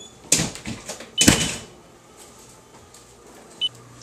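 Two sharp knocks or rustles of handling noise in the first second and a half. Two short high beeps sound, one about a second in and one near the end.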